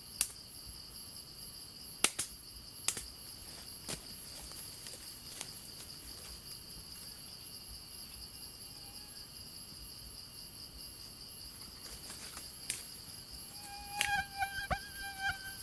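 Steady high-pitched drone of insects such as crickets or cicadas, broken by a few sharp clicks. Near the end a chicken starts calling.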